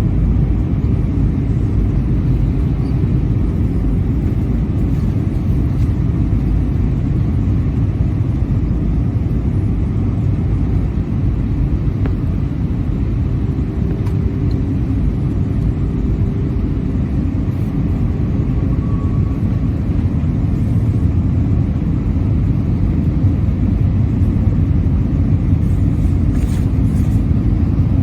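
Cabin noise inside an Airbus A320-232 in flight: a steady, low rumble of airflow and engine noise with no breaks.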